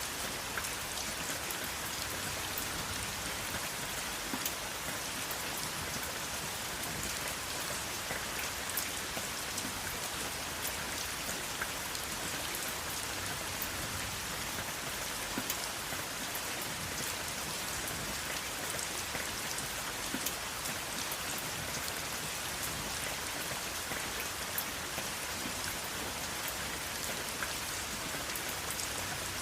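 Steady rain falling, a constant hiss dotted with many small, sharp drop ticks, with no thunder.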